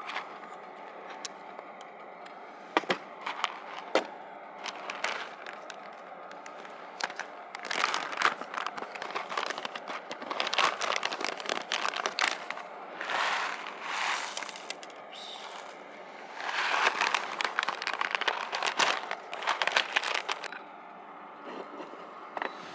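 Close-up handling noise: scattered sharp clicks and knocks, then three longer stretches of rustling, crinkling noise.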